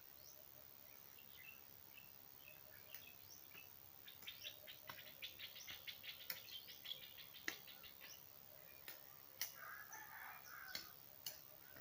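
Small birds chirping faintly, with scattered single notes at first and then a fast run of rapid chirps from about four to eight seconds in. A few sharp clicks stand out among the calls.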